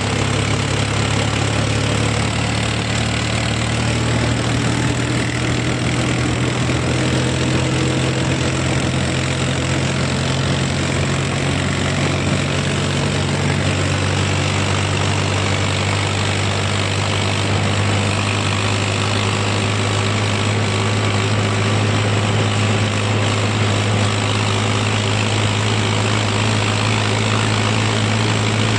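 Tractor's diesel engine running steadily with a deep, even hum.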